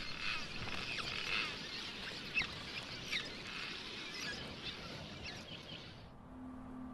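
Birds calling in short, quick, falling chirps over a steady outdoor hiss. About six seconds in, this gives way to a sustained low music tone like a singing bowl.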